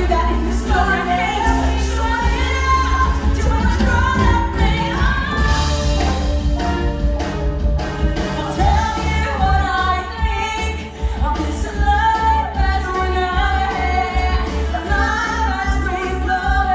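Musical-theatre song: female voices singing over a steady accompaniment with a strong bass.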